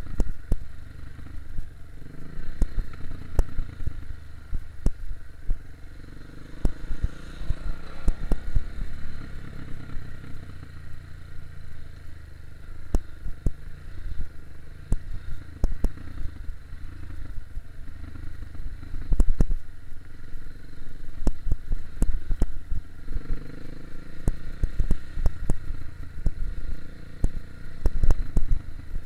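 Enduro dirt bike engine running and varying in pitch as it is ridden over a rough trail, with many sharp clicks and knocks throughout.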